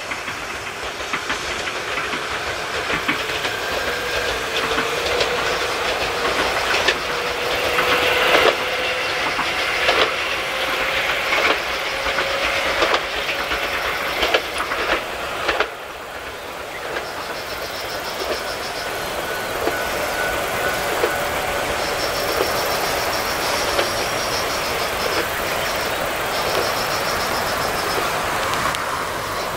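Tobu 634-type Skytree Train electric railcar running away along the track, its traction motor whine rising slowly in pitch as it gathers speed. Clicks from the rail joints and wheel noise fade as it recedes.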